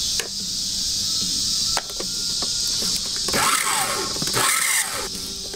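Electric food processor pulsed to chop mushroom stems: a few plastic clicks, then about three seconds in its motor whines up and falls back a couple of times. Insects buzz steadily throughout.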